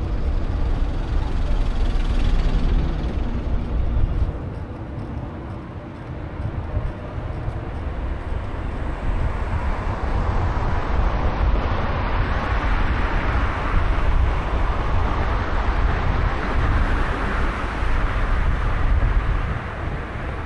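Road and traffic noise heard from a moving bicycle, with a deep rumble of wind over the microphone. It drops back about four seconds in and grows louder again from about ten seconds in.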